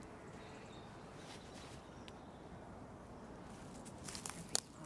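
Quiet outdoor background with a few light clicks and rustles from hands handling alder twigs and cones, with a sharper snap-like click near the end.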